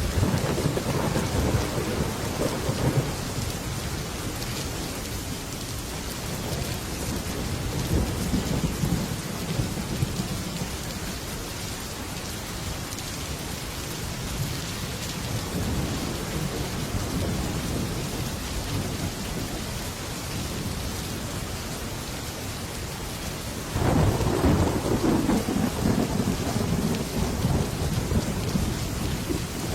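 Heavy rain falling steadily on a metal roof, with thunder: a rumble at the start, two softer rumbles in the middle, and a sudden loud peal about 24 seconds in that keeps rolling.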